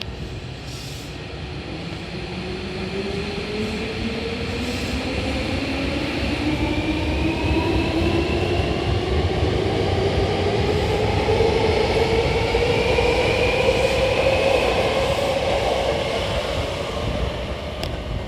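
Hankyu 1000 series electric train pulling away from a station, its traction motors whining and rising steadily in pitch as it picks up speed over rumbling wheel and rail noise. It grows louder as it passes, easing off slightly near the end.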